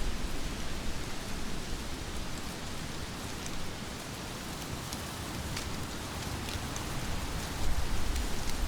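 Heavy rain falling steadily, an even hiss with a few sharper drop ticks. A low rumble swells louder near the end.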